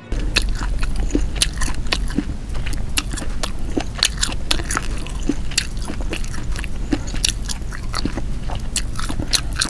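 Close-miked chewing of tough, chewy grilled squid: a dense, irregular run of mouth clicks and smacks.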